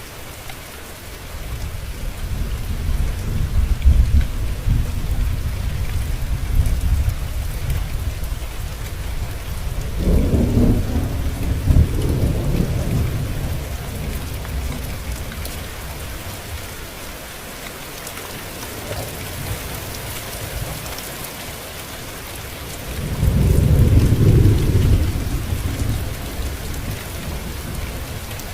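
Steady rain falling, with rolling thunder: long low rumbles through the first several seconds, another about ten seconds in, and the loudest a little before the end.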